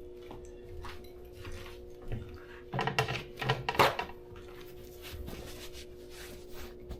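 Clattering of hard objects being handled: scattered knocks, then a run of rattling knocks about three to four seconds in, over a steady low hum.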